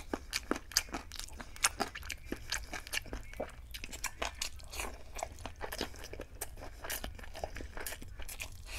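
Close-miked chewing of chicken biryani: wet mouth smacks and sharp clicks, several a second, thinning out after about three seconds.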